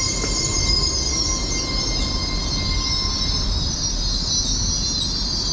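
LNER Class 801 Azuma electric train drawing into the platform, with a loud, steady high-pitched squeal over a low rumble. A fainter, lower whine stops about three seconds in.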